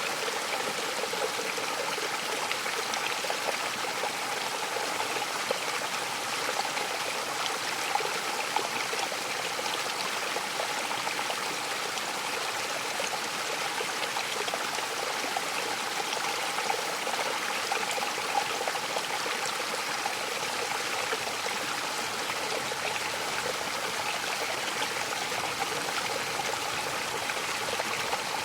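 Mountain waterfall: water falling and splashing in a steady rush, with small splashes flickering through it.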